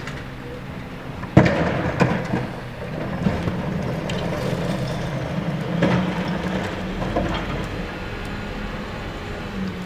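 Garbage truck engine running steadily, with a loud bang about a second and a half in, another near two seconds, and a smaller knock near six seconds.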